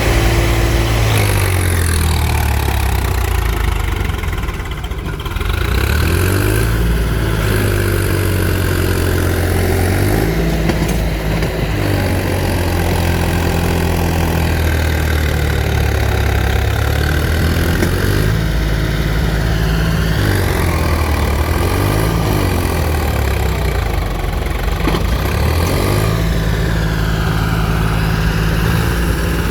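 Heavy diesel engine running, its speed rising and falling several times between idle and higher revs.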